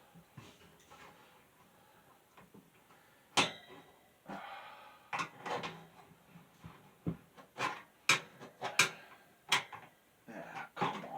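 Irregular clicks, knocks and light clatter of hard parts being handled and set down, as during hand work on a box fan; the sharpest knock comes about three seconds in, with a quick run of knocks near the end.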